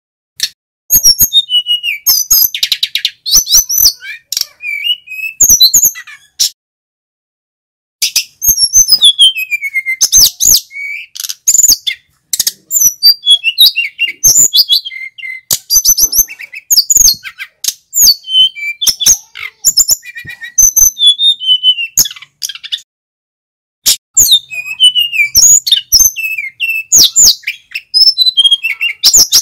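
Male sikatan gunung (a flycatcher) singing full song: rapid runs of high chirps and falling whistles, broken by short pauses.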